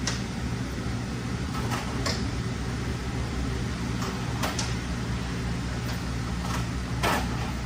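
A steady low mechanical hum, with a few faint taps and clicks from parts being handled while a transmission filter seal is greased.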